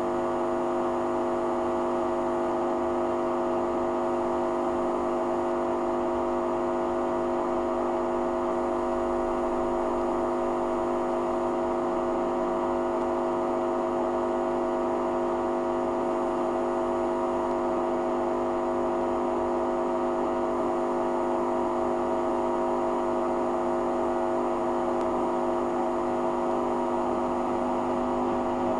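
Hoover Dynamic washing machine running steadily during its rinse programme, a constant hum with a few fixed tones that does not change.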